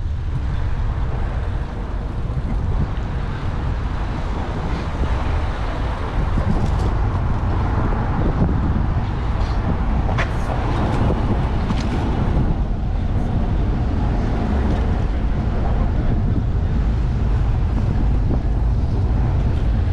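Wind noise on a bicycle-mounted GoPro's microphone while riding, over steady road and traffic noise, with a few faint ticks.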